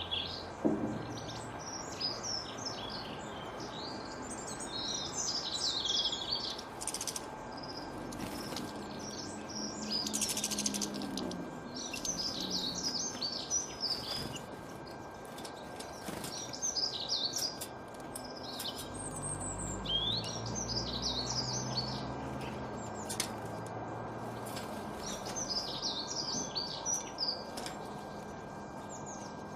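Small songbirds singing in repeated bursts of rapid, high chirping phrases every few seconds, over a steady background hiss.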